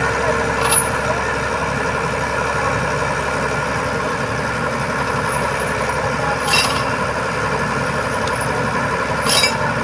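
Truck engine running steadily at idle, with three short sharp clinks: one near the start, one about two-thirds in and one near the end.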